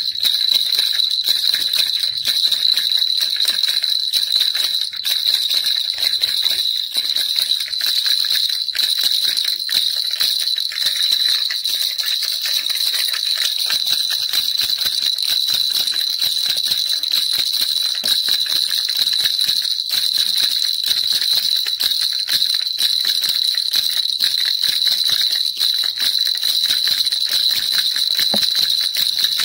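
Baby rattle shaken without pause, a dense, even jingling clatter with a steady high ringing tone.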